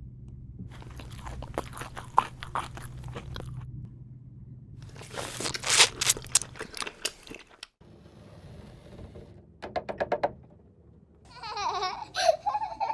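Crunching and clicking sounds in irregular clusters, with a louder rush of noise in the middle and a quick run of clicks later. A high-pitched voice comes in near the end.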